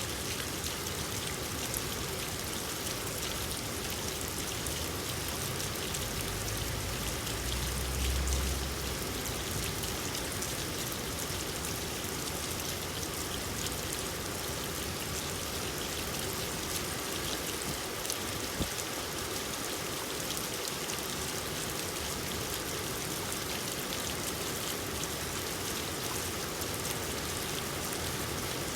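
Steady rain falling, a dense patter of individual drops over an even hiss. A brief low rumble swells about seven to nine seconds in.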